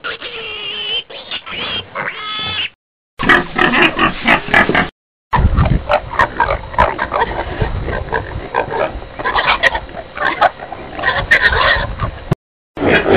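Animal sound-effect clips played one after another, separated by brief silences. The first is a short clip of high, wavering calls, and the later ones are longer clips of rougher, lower animal calls.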